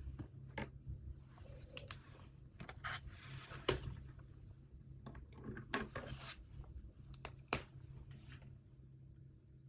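Desk handling sounds: irregular rustling and scraping broken by a few sharp clicks or taps, over a faint steady hum.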